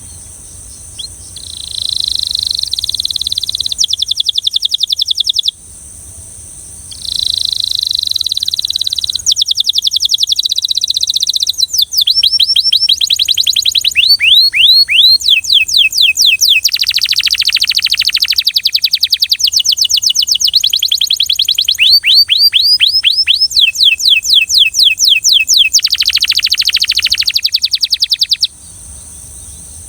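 Belgian canary singing in long phrases of fast trills and rapidly repeated sweeping notes, with brief pauses between phrases.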